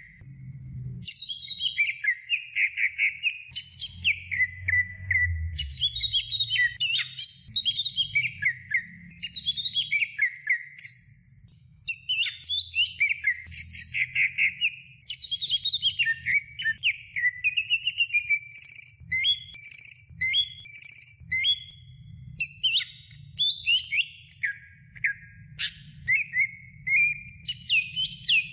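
Green leafbird (cucak ijo) singing a long, varied song of rapid whistled phrases and fast trills, broken by short pauses, over a low background rumble.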